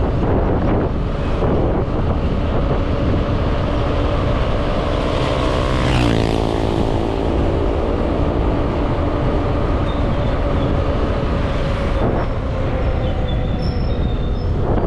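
Motorbike engine running steadily while riding, with wind rushing over the microphone. About six seconds in, a louder surge comes with an engine tone that falls in pitch.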